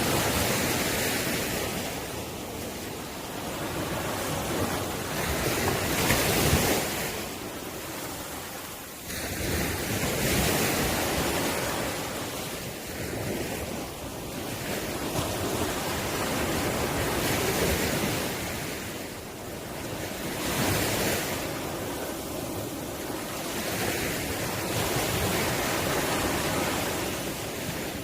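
Sea waves breaking and washing up the shore, a rushing hiss that swells and falls back every few seconds.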